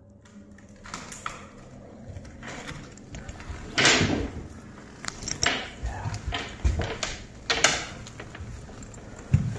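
A series of irregular knocks, bumps and scrapes, the loudest about four seconds in, with more around the middle and near the end.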